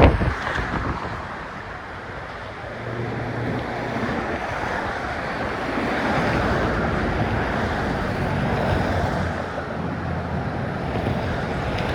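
Steady wind over the microphone mixed with the running noise of road traffic passing close by on the bridge deck, swelling and easing as vehicles go by.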